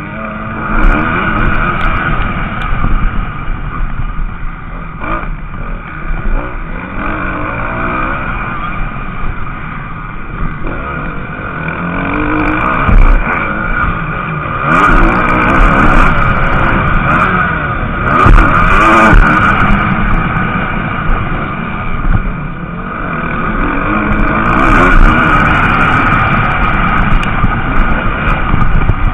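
MX2-class motocross bike engines racing, revving up and down as they accelerate and shift. The sound swells as bikes pass close, about halfway through and again near the end.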